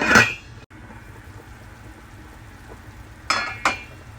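Cookware clattering briefly at the start, then a metal pot lid set onto the pot clinks twice in quick succession, about a third of a second apart, over a low steady hiss.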